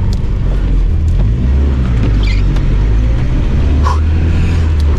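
Volvo 240 rally car's engine running steadily at low revs, heard inside the cabin, a low drone that shifts slightly in pitch.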